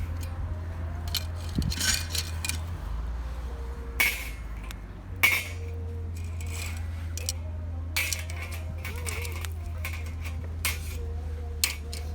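Metal cooking gear and utensils clinking and tapping against each other in a string of sharp, separate clinks, over a steady low hum.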